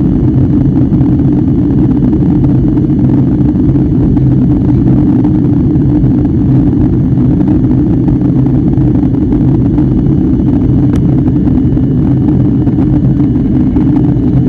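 Steady low rumble of a jet airliner's engines and rushing air heard inside the passenger cabin, with a constant low hum running through it.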